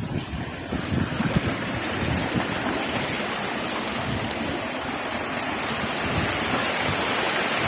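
Rushing water of a stream and waterfall, a steady noise that grows gradually louder.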